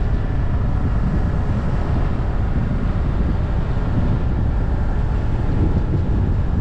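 Steady wind rush and road noise on a bonnet-mounted action camera's microphone as the car runs downhill. Beneath it a faint steady tone from the Subaru Forester's CB18 engine, held in a low CVT ratio for engine braking.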